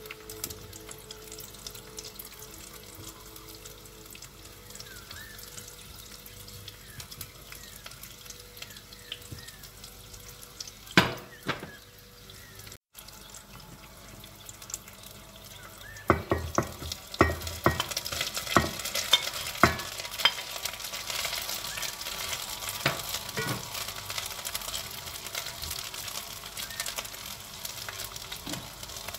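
Potato slices and sesame seeds sizzling in oil in a pan, quietly at first and growing louder in the second half. From about halfway through there is a run of sharp knocks and scrapes as rice is spooned in on top.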